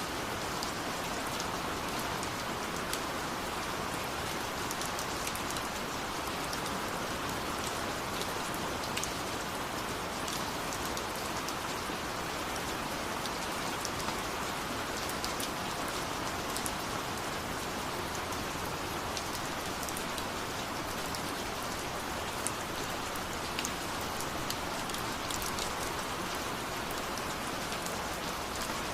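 Steady rainfall: a constant hiss with many small, sharp drop ticks scattered through it.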